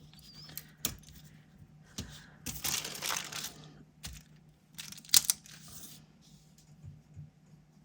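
Paper sticker pieces being handled on a desk: a few light taps, a paper rustle about a third of the way in, then more rustling with one sharp click a little past the middle.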